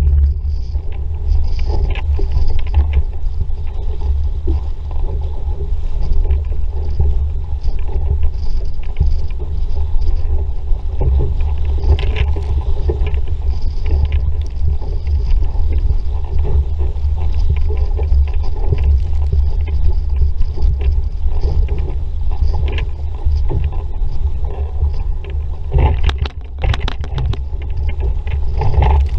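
Wind buffeting the microphone of a camera aboard a sailing dinghy under way in a breeze, a steady low rumble, with water rushing and slapping along the hull. A cluster of sharper splashes and knocks comes near the end.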